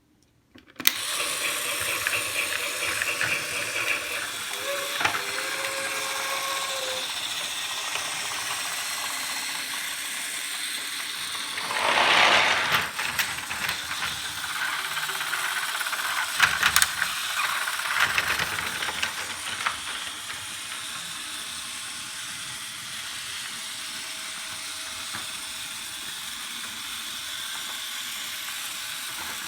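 Fisher-Price GeoTrax battery-powered toy train running on its plastic track, a steady whirring of its small motor and gears starting about a second in, with a louder rushing burst about twelve seconds in.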